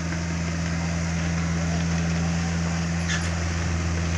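Takeuchi TB150 mini excavator's diesel engine running steadily, with a few faint clicks about three seconds in.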